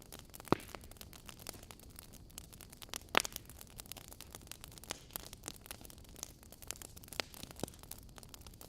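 Wood fire crackling in a fireplace: a soft steady hiss with frequent small crackles and a few louder pops, the loudest about half a second and three seconds in.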